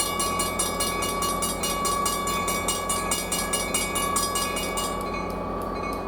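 Diesel-hauled passenger train passing close by, locomotive engine running steadily, with a fast, even ticking about five times a second that thins out near the end.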